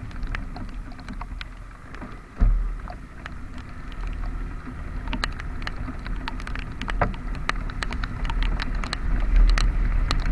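Raindrops ticking sharply and irregularly on a waterproof camera case over a steady low wind rumble from riding a scooter in the rain, with one louder thump about two and a half seconds in.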